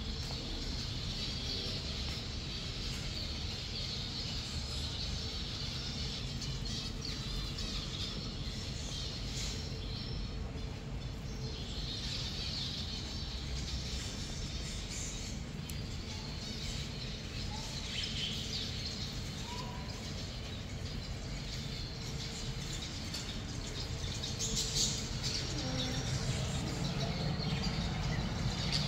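Small birds chirping and calling here and there over a steady low background rumble.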